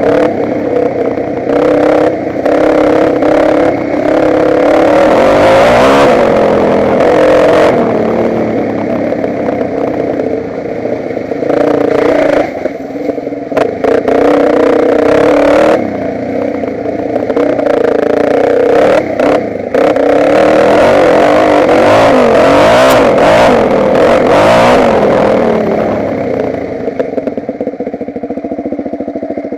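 Motocross bike engine being ridden hard, its pitch repeatedly rising as the throttle opens and dropping away in short gaps as it closes. It settles to a quieter, steadier run near the end.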